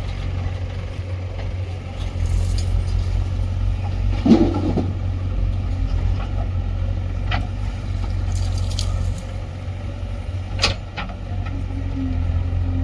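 Heavy diesel engine running steadily with a low rumble, with a loud thump about four seconds in and a few sharp metallic clanks later.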